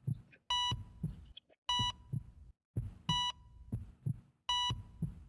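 Heartbeat thumps with a heart-monitor beep about every second and a half, four short high beeps in all, like a hospital monitor sound effect.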